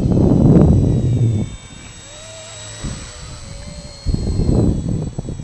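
Esky 150X micro RC helicopter flying, its electric motors and rotor giving a steady thin whine. Gusty wind buffets the microphone with loud low rumbles for the first second and a half and again about four seconds in, as the helicopter fights the wind.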